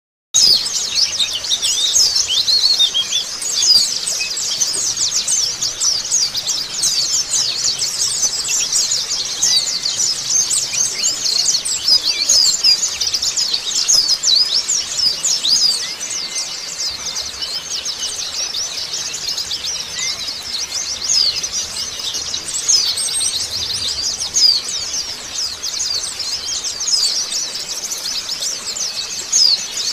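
Pleci (white-eyes) twittering continuously in a dense stream of rapid, high chirps, with a few softer, lower drawn-out whistles now and then.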